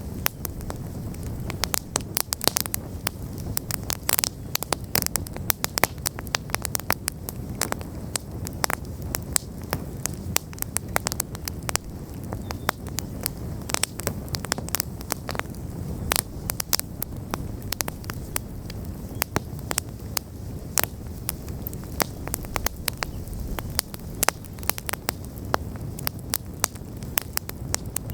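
Wood fire burning steadily, with frequent sharp crackles and pops over a low, steady rumble of flame.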